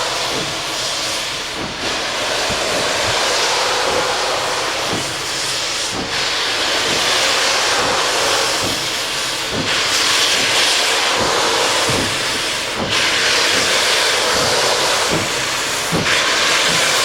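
Steam hissing steadily from D&SNG K-37 #493, a narrow-gauge 2-8-2 steam locomotive, its upper hiss swelling and easing every few seconds, over a run of short, irregular low thumps.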